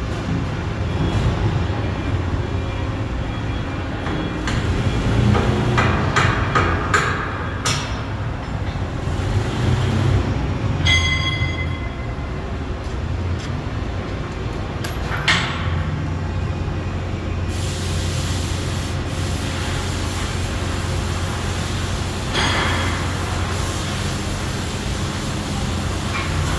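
Steady low mechanical rumble, like heavy machinery running, with scattered metal clanks and knocks, a quick run of them a few seconds in and a brief ringing squeal about eleven seconds in.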